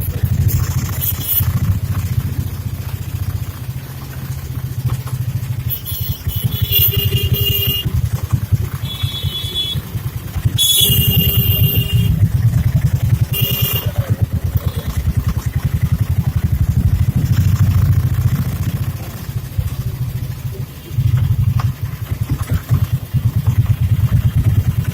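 Street traffic heard from a moving rickshaw: a constant low rumble of road noise and nearby engines, with several short horn honks in the middle.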